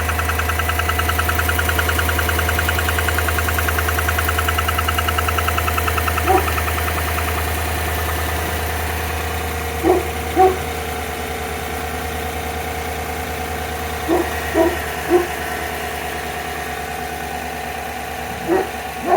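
Chevrolet Tahoe V8 idling with a fast, even exhaust tick that fades away about seven seconds in, leaving a steady idle. The tick is the intermittent startup noise from a leaking right-side exhaust manifold bolt. A few brief sharp squeaks or yelps come in pairs and threes in the second half.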